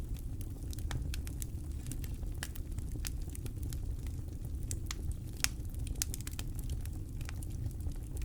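Campfire crackling with many irregular sharp pops and snaps, over a steady low rumble of wind.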